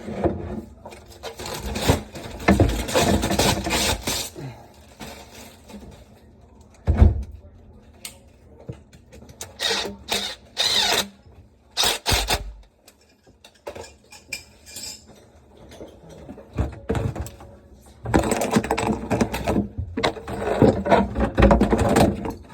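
Intermittent knocks, clicks and clatter of parts and tools being handled during a dishwasher installation, with sharp impacts about 7 and 12 seconds in and a denser run of rattling near the end.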